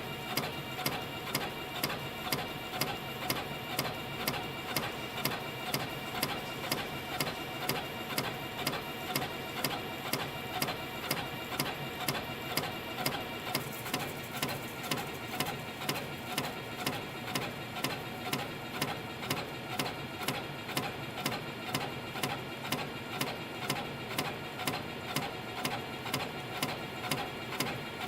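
CNC compression spring coiling machine running steadily at production speed, with a sharp click a little over twice a second as each spring is cut off the 0.6 mm wire, about 130 springs a minute.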